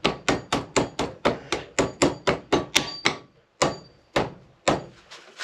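Hammer tapping a bicycle spoke, about four quick blows a second, driving it down into a knee ascender's rope sleeve; the blows slow to about two a second near the end.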